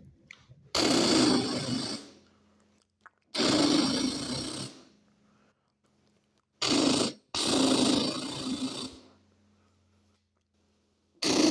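Five bursts of rough buzzing drilling noise, each one to two seconds long, with a low hum beneath them.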